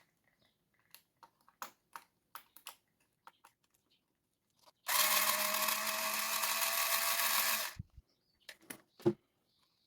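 A small electric screwdriver runs steadily for about three seconds, unscrewing a screw from the RC truck's chassis. Light clicks of screws and plastic parts being handled come before and after it, with a sharper knock near the end.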